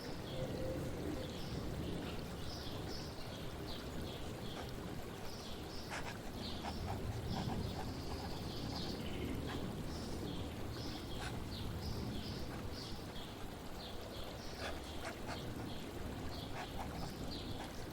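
Steady flowing water with many short bird chirps scattered over it.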